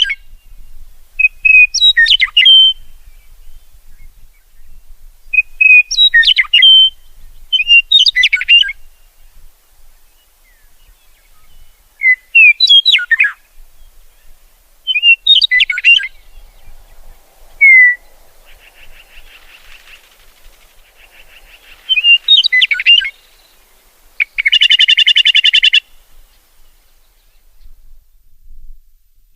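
A songbird singing short chirping phrases with quick falling sweeps, repeated every two to three seconds. A loud buzzy trill sounds near the end.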